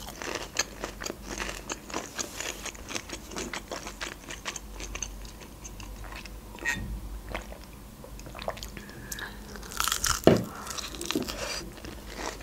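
Close-up crunching and chewing of a crispy breaded fried chicken wing. The crunching thins out past the middle, then louder bites come again near the end.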